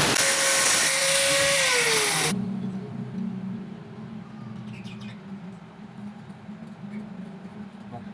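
A loud, hissing motorized whine that winds down, its pitch falling, and stops about two seconds in, followed by a quieter steady low hum.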